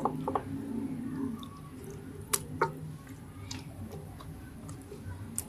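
A few light clicks and knocks of cookware being handled, two close together a little past two seconds in and one near the end, over a faint low background.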